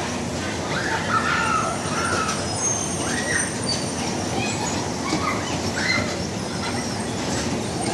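Steady din of a bumper car ride running in heavy rain, with a few short high calls over it.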